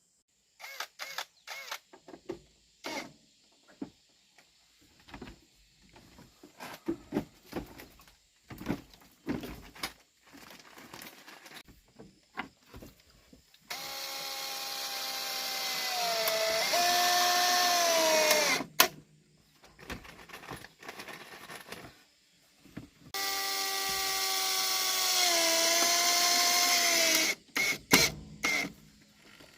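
Power drill run twice, for about five and then four seconds, its whine dropping in pitch partway through each run as it bites, then stopping abruptly. Scattered knocks and clatter of handling material come between the runs.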